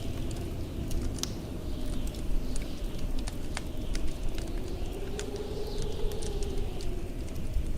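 Blizzard wind rumbling and howling, with a moaning gust that swells and fades about five to six seconds in, over the irregular crackle and pops of a wood fire in a fireplace.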